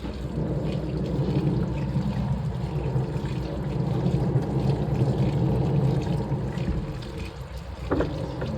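Washing machine running a wash, water sloshing in uneven surges that ease off near the end, with one sharp click shortly before the end.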